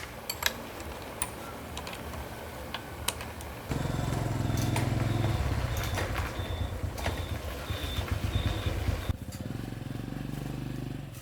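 50cc Cub motorbike engine running. It ticks over with a few light clicks, is revved up sharply about four seconds in and held there for around five seconds, then drops back to a steadier, lower run.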